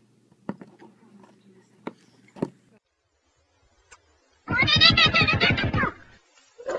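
A cat gives one long, wavering meow about four and a half seconds in, after a few light knocks.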